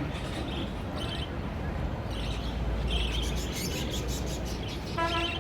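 Small caged birds chirping over and over, short high chirps scattered through a steady background noise. A brief low rumble comes about two seconds in, and a short pitched, horn-like tone near the end.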